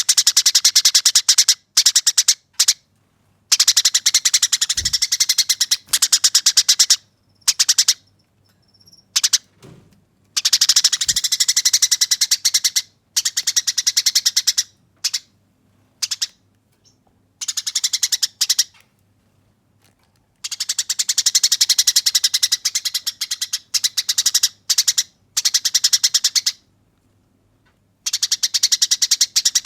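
Eurasian tree sparrows giving harsh, fast rattling fight chatter in repeated bouts of one to four seconds with short gaps between them.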